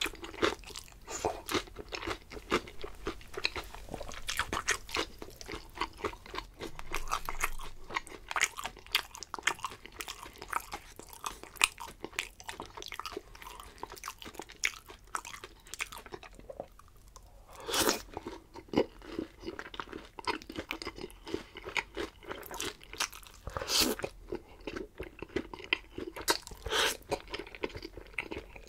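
A person chewing crisp food close to the microphone, with many small crunches in quick succession. The crunching pauses briefly past the halfway point, then comes back with a louder bite.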